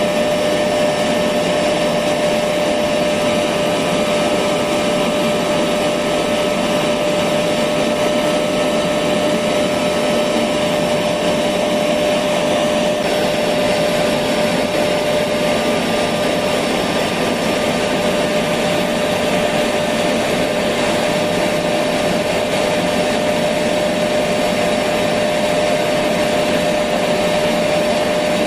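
Electric vacuum cleaner running steadily, a continuous whooshing motor noise with a steady hum in it, unchanging.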